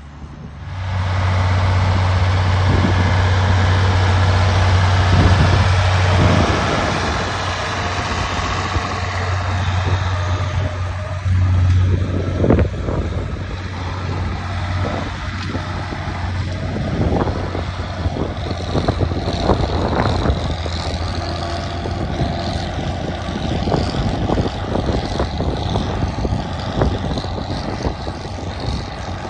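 Farm tractor engine running as it pulls a moldboard plow through the field, with a strong steady low drone for the first dozen seconds or so, then a rougher, uneven running sound.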